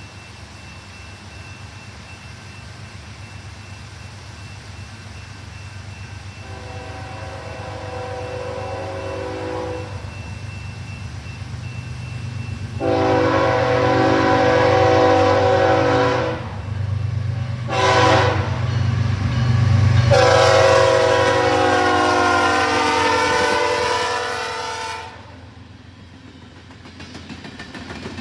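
Diesel freight locomotive approaching under a rising engine rumble and sounding its multi-chime air horn in the long-long-short-long pattern of a grade-crossing signal. The final long blast is the loudest and cuts off sharply, leaving the engine rumble.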